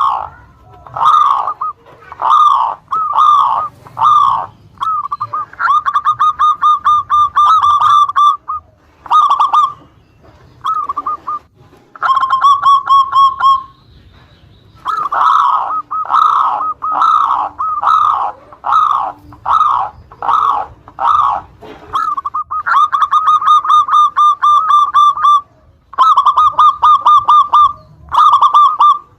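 Zebra doves (perkutut) cooing in repeated phrases of quick staccato notes with short gaps between them. Some phrases are long, even runs of rapid notes.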